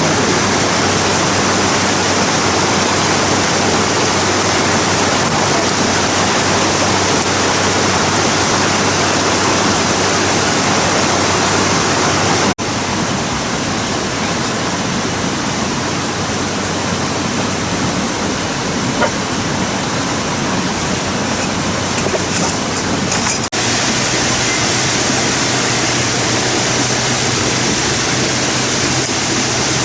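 Loud, steady rushing of water, an even noise with no distinct events, broken by two abrupt cuts about twelve and twenty-three seconds in.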